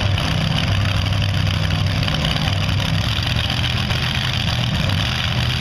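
Modified pulling tractor with three supercharged Chevrolet engines running steadily, a loud, even low drone with no revving.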